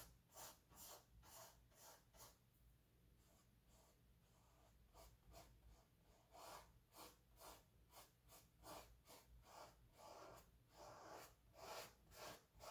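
Faint, short scratchy strokes of a paintbrush laying paint onto canvas, a few per second, with a pause of about two seconds a few seconds in.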